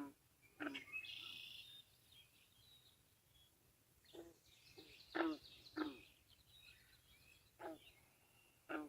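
Birds calling outdoors: a string of short, fairly low calls repeated at irregular intervals, with a brief high song about a second in and faint high chirps between.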